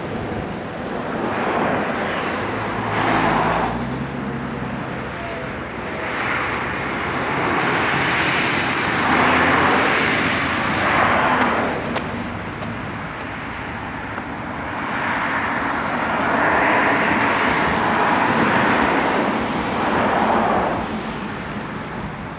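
Rushing noise of riding a Veteran Sherman electric unicycle, wind and tyre noise that swells and fades about four times over a faint low motor hum.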